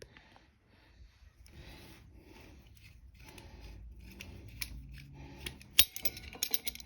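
Metal hand tools being handled: soft rubbing and shuffling, then sharp metallic clicks and ticks from about four seconds in, the loudest near six seconds.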